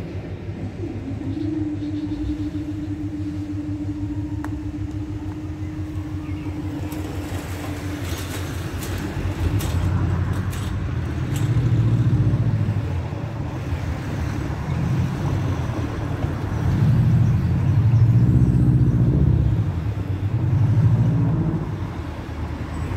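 The train behind steam locomotive 60163 Tornado running away into the distance, with a low steady hum for the first several seconds. In the second half, low rumbling swells rise and fall several times, loudest near the end.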